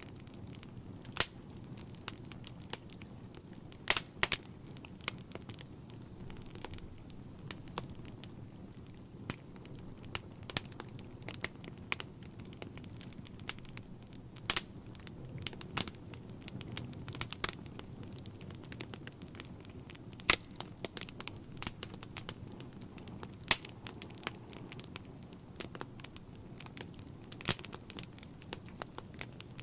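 Wood fire burning in a fireplace: irregular crackling with sharp pops, a few much louder than the rest, over a low steady rumble.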